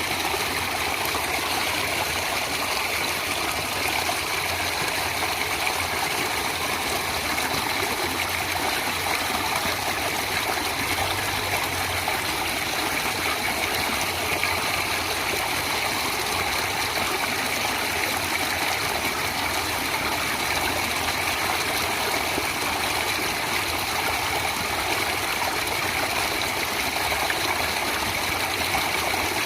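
Natural running water, such as a stream, flowing with a steady, even rush.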